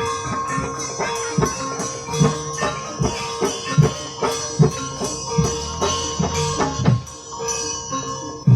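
Javanese ebeg (kuda kepang) accompaniment music: a percussion ensemble of repeated drum strokes over struck keyed instruments, with sustained ringing tones.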